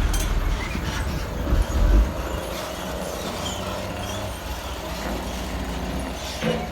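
Heavy diesel engine running steadily with a low rumble, and a louder bump just under two seconds in.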